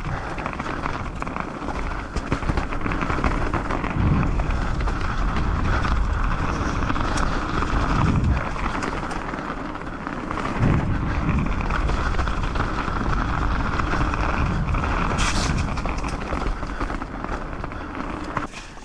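Mountain bike rolling fast down a dirt trail: steady tyre noise with rattling and clicking from the bike, and a few dull thumps over bumps.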